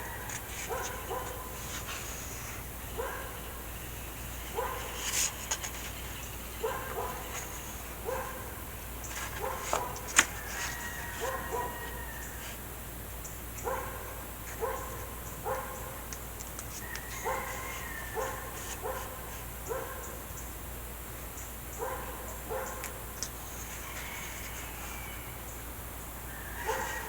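A dog giving short, repeated yips and whines at irregular intervals, with a single sharp click about ten seconds in.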